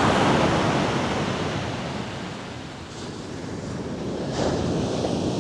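Pacific Ocean surf breaking and washing on the beach, a steady rush that eases off midway and builds again, with wind on the microphone.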